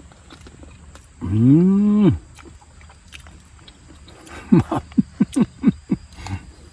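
A man's long hummed "mmm" of relish while eating, rising, held for about a second and falling away. Near the end come about seven quick short hums.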